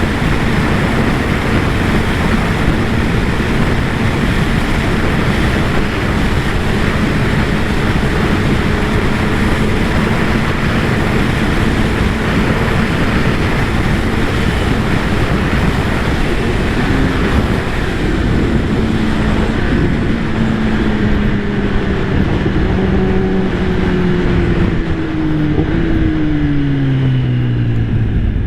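Kawasaki ZX-10R inline-four engine and exhaust at a steady cruise under heavy wind rush on the microphone. About two-thirds through the engine note starts falling in several steps as the bike slows and shifts down.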